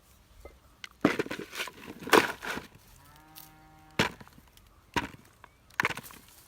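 Several sharp scraping strokes of a tool digging potatoes out of garden soil, with a cow mooing once for about a second in the middle.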